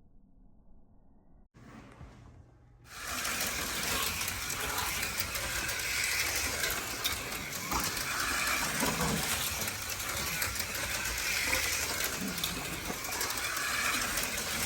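HO scale slot cars running on a plastic track: a steady buzzing whine from the small electric motors, with the rattle of the cars in the slots. It comes in suddenly about three seconds in.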